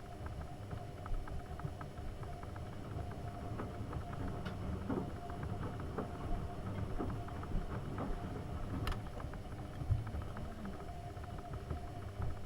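AEG Öko-Lavamat 72520 washing machine running a boil wash: a steady low rumble of the turning drum under a faint steady motor hum, with many small clicks and knocks of laundry and water and a few sharper ticks.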